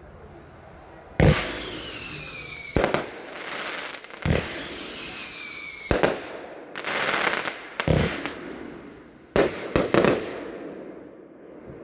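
Consumer firework cake, Top Gun's 38-shot 'Brave and Strong', firing. Sharp shot reports come about every one and a half seconds, with a crackling hiss between them. Two of the shots are followed by a falling whistle, and a quick cluster of three reports comes near the end.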